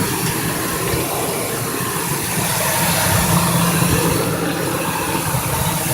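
2001 Ford Expedition's V8 engine idling steadily just after a cold start. The owner suspects it may have a slight vacuum leak.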